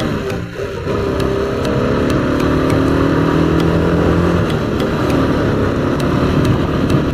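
Motorcycle engine running under way, its level dropping briefly about half a second in, then holding a steady note that slowly drifts in pitch. Wind rushes over the helmet-mounted microphone throughout.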